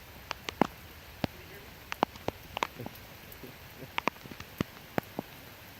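Rain during a storm: a steady hiss with sharp, irregular taps of raindrops striking close to the microphone, several a second.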